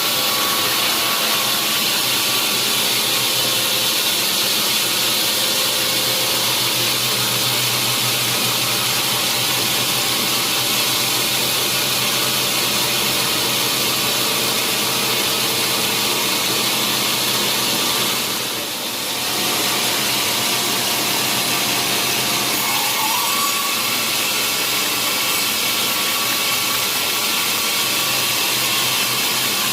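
Sawmill saw running steadily through a large log, with the noise dipping briefly a little past the middle.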